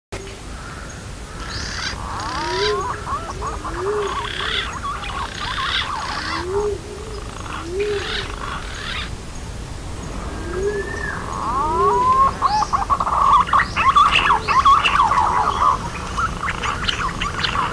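Green pigeons (punai) calling, as played from a bird-luring recording. Pairs of short, low, rising-and-falling coos come every few seconds under a busier chatter of higher, gliding whistled notes, which grows louder and denser in the last few seconds.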